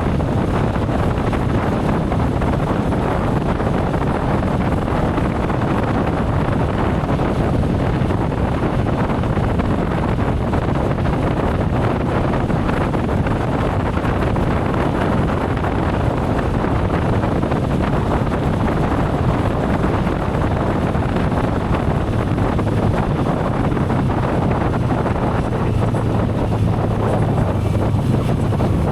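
Wind rushing over the microphone of a motorcycle moving at speed, with a steady low engine hum underneath that grows slightly louder near the end.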